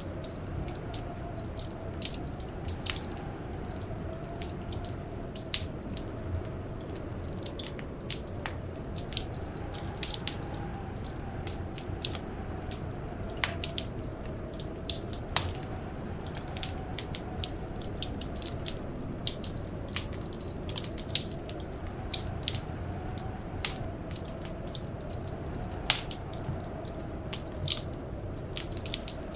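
Wood fire crackling, with irregular sharp pops several times a second over a steady low rumble. Behind it, blizzard wind howls faintly as a single tone that slowly wavers up and down.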